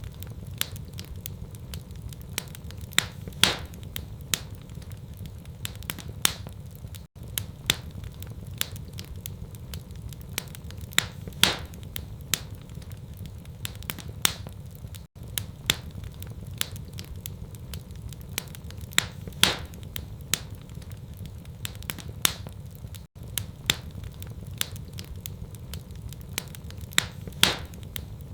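Wood fire in a fireplace crackling: frequent small sharp pops, with a louder pop about every eight seconds, over a steady low rumble.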